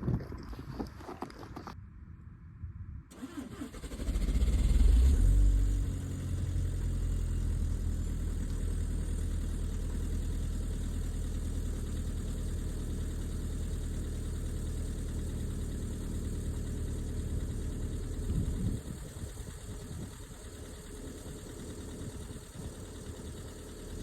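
2.0-litre four-cylinder TDI diesel of a 2012 VW Mk6 cold starting: it cranks briefly, catches and flares up loudly, then settles into a steady idle. About 19 seconds in, the sound becomes quieter.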